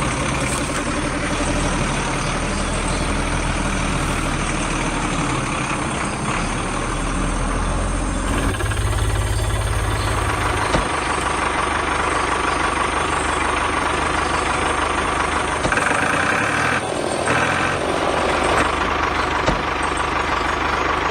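An engine running steadily, like a vehicle idling; its low drone changes about halfway through.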